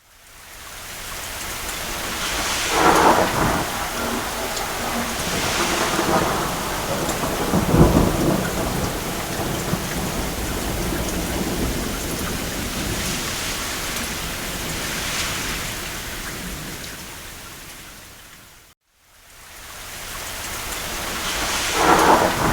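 Steady rain with rolls of distant thunder swelling up several times, the deepest rumble about eight seconds in. The sound fades out to silence and back in once, about three-quarters of the way through.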